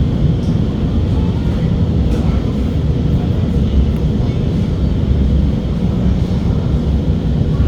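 Steady low rumble inside an SMRT R151 metro train carriage.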